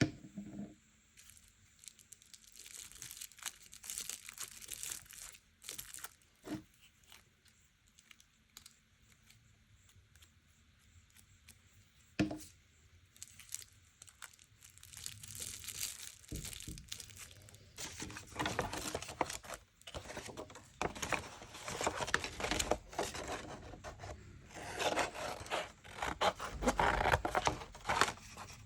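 Paper being torn and handled, with crinkling and rustling. A few light knocks come in the first half, then the tearing and rustling grows denser and longer from about halfway through.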